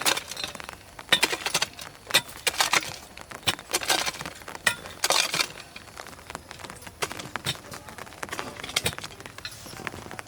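A hand tool striking and scraping loose soil, a run of irregular sharp clinks and scrapes that is busiest in the first five seconds and thins out after.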